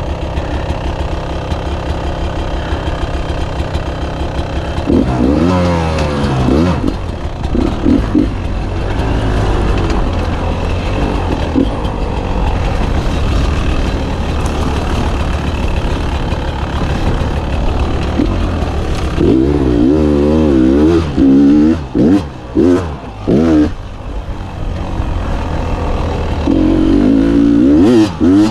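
Beta 300 two-stroke dirt bike engine running under load, revs rising and falling as the throttle is worked. In the last third, a run of short, sharp throttle blips with the engine dropping off between them.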